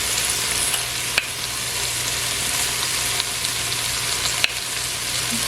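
Sliced okra slow-frying in vegetable oil in an open pot on low heat: a steady sizzle, with two sharp knocks, about a second in and again a few seconds later.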